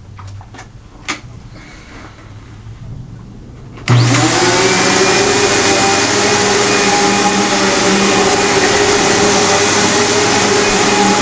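A 2001 Eureka The Boss Victory 4334 vacuum cleaner is switched on about four seconds in, its motor spinning up with a quick rising whine and then running loudly and steadily. Before it starts there are a few faint clicks.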